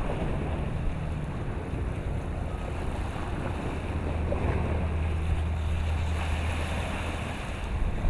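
Wind blowing across the microphone with low, uneven buffeting, over a steady wash of choppy water.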